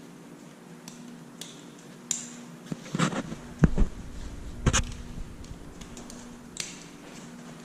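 Gear being handled, likely protective gear being put on: a few clattering knocks and deep thumps in the middle, and scattered small clicks, over a steady low hum.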